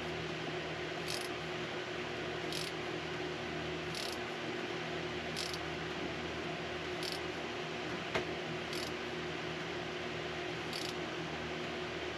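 Small socket ratchet tightening a hose clamp on the engine's raw-water cooling pipe, giving a short burst of clicks on each back-swing about every second and a half, over a steady low hum.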